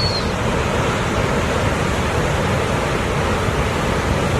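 Ocean surf washing on the shore in a steady rush, with wind buffeting the microphone.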